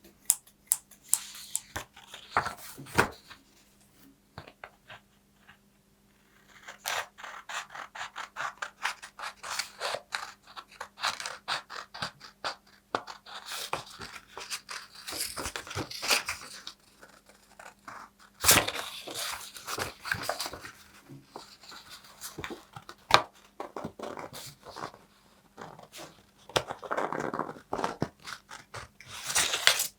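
Paper being handled up close, crackling and rustling in irregular bursts with many sharp clicks and short tearing or cutting sounds. There is a pause of about two seconds early on. A faint steady low hum runs underneath.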